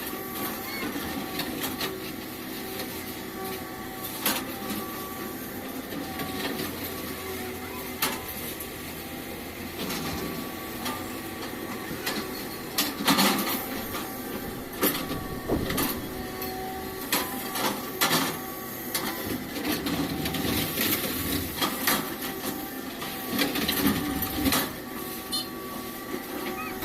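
Excavator running steadily with a constant hum, with frequent sharp metallic clanks and knocks throughout.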